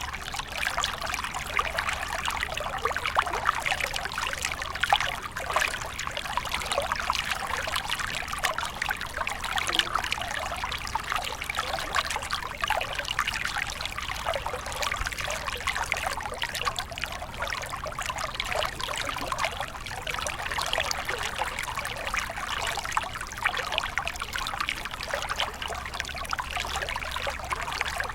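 Small stream of water flowing and trickling, a steady burbling with many fine splashes and no let-up.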